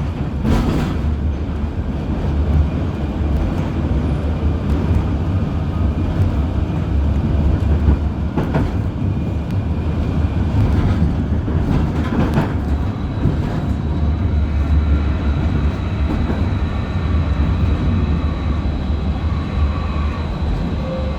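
UKVZ KTM-23 (71-623-04.01) tram running along the track, heard from on board: a steady low rumble with a few knocks from the wheels, and a thin high steady whine that comes in about two-thirds of the way through.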